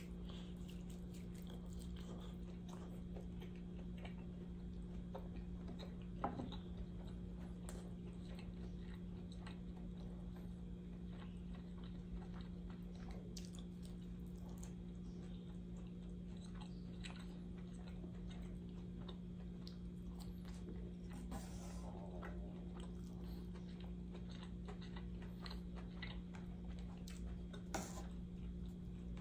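Close-up chewing and biting sounds of a person eating braised tofu and rice, with small wet mouth clicks. A steady low hum runs underneath, and two sharper knocks stand out, one about six seconds in and one near the end.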